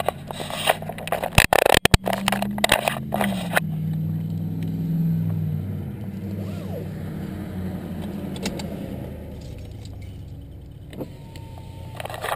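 Clicks and rattles, then about two seconds in the 2012 Chevrolet Cruze's 1.4-litre turbocharged four-cylinder, breathing through a K&N Typhoon intake, starts and idles, its idle settling lower over the next few seconds. Heard from inside the cabin, with a short beeping tone near the end.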